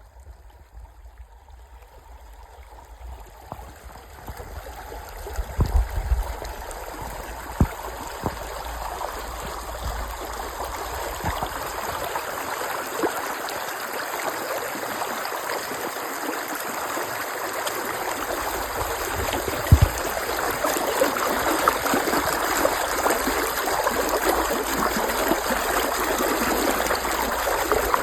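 Creek water running and trickling over rocks, a steady rush that grows steadily louder, with a few short low thumps along the way.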